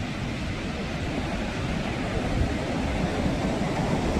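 Sea surf: waves washing in as a steady noise with a deep rumble, swelling slightly toward the end.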